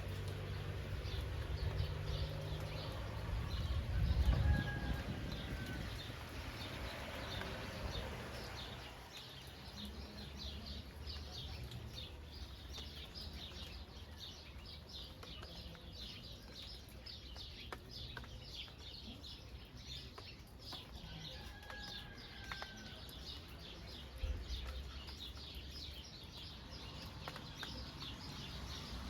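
Steady rain with small birds chirping rapidly and continuously, and a short whistled bird call twice, about four seconds in and again near the twenty-two second mark. A low rumble swells in the first few seconds and peaks about four seconds in.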